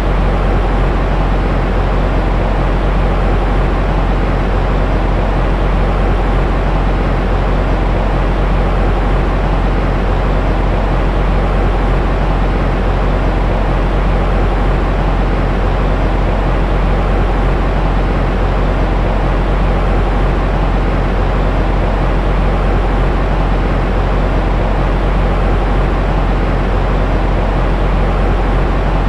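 Steady white noise for lulling a baby to sleep, unchanging in level and weighted toward a deep, low rumble rather than a bright hiss.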